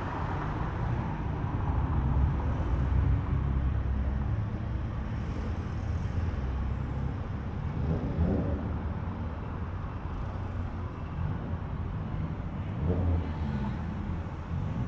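Cars rolling past at low speed, their engines rumbling steadily, with two brief revs, one about eight seconds in and another near the end.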